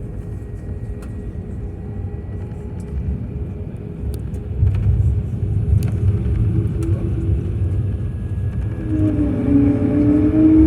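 Low, steady rumble of an airliner heard from inside the cabin, growing louder about four and a half seconds in.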